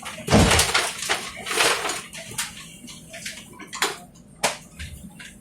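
Noises inside a moving tram: a heavy thump near the start, a short hissing rush about a second later, then a few sharp clicks and knocks.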